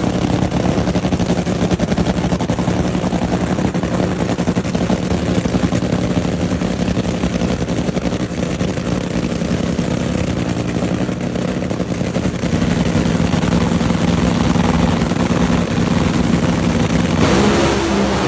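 Drag race car's engine running with a rapid pulsing exhaust beat, then revving up near the end.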